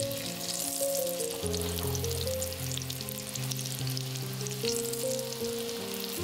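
Hot oil sizzling and crackling steadily as potato-dough pasties fry in a pan, over soft background music of sustained low notes.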